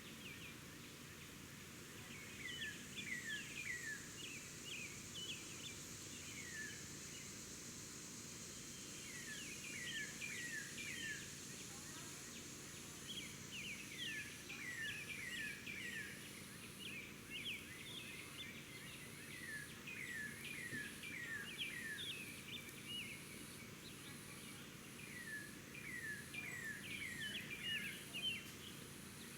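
Outdoor birdsong: a songbird repeats short runs of quick downward-slurred chirps every few seconds, over a high buzz that pulses about once a second.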